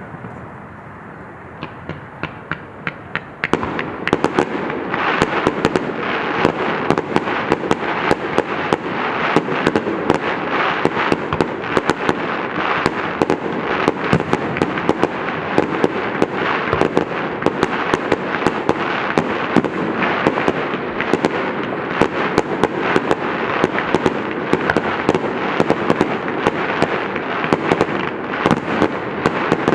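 Fireworks going off: a few sharp cracks at first, then from about three and a half seconds in a dense, continuous crackle of rapid pops and bangs that keeps up throughout.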